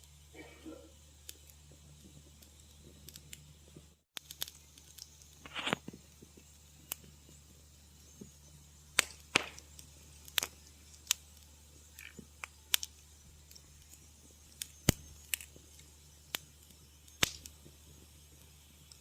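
Wood fire in a fireplace crackling: scattered sharp pops and snaps, several of them loud in the second half, over a faint steady low hum. The sound cuts out briefly about four seconds in.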